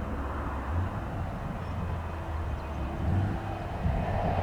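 Steady low rumble of distant jet aircraft engines across an airfield, with a faint steady hum joining in for a second or two midway.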